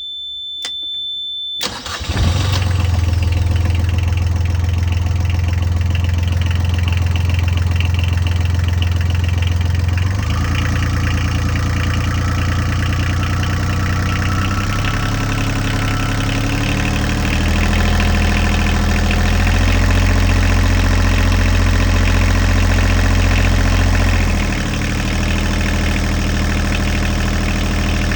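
A sailboat's inboard engine starts about two seconds in and then runs steadily, its speed shifting slightly around ten seconds and again near twenty-five seconds. Before it catches, a steady high-pitched beep sounds and cuts off.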